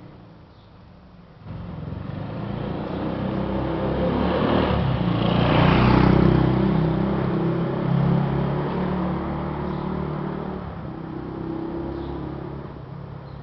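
A motor vehicle's engine, coming in abruptly about a second and a half in, growing louder to a peak about six seconds in, then slowly fading away.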